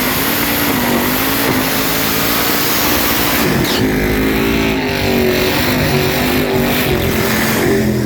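Small-block Chevy V8 engine running loud and hard at high rpm, a steady engine note with a shift in pitch about three and a half seconds in.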